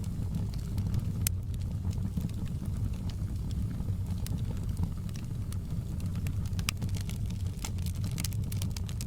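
Wood fire burning in a fireplace: a steady low rumble of flames with frequent irregular sharp crackles and pops of burning wood.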